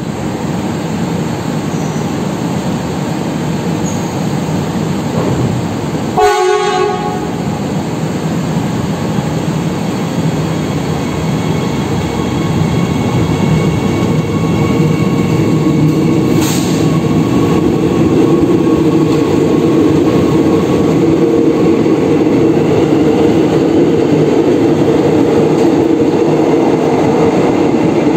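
A Soekarno-Hatta airport rail link electric train running along a station platform: a steady rumble of wheels on the rails, with a short horn blast about six seconds in. The running sound grows louder in the second half.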